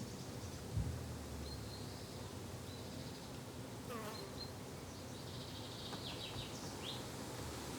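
Insects buzzing steadily in a low drone, with short high bird chirps scattered over it and one soft thump about a second in.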